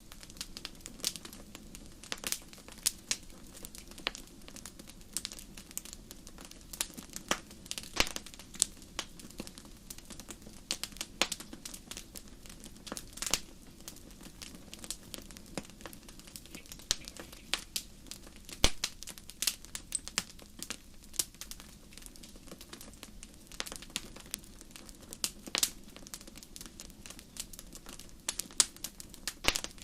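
Wood fire crackling in a fireplace: irregular sharp pops and snaps, several a second and some louder than others, over a steady low background.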